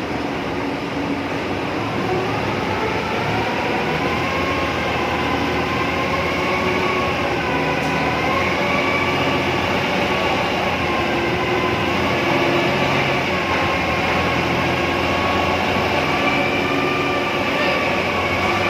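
Heavy machinery running steadily, a low rumble with a whine that slowly wavers in pitch.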